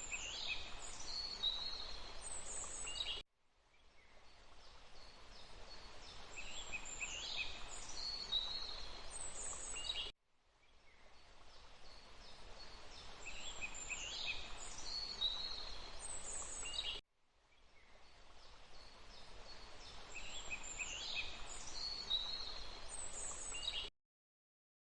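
Forest ambience of birds singing over a steady hiss. It is a short loop repeating about every seven seconds: each pass swells in and cuts off suddenly. The sound stops altogether near the end.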